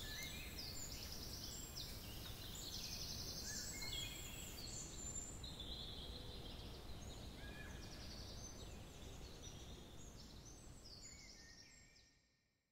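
Birds singing in many short, rapid trilled phrases over a steady low rumble of background noise, fading out near the end.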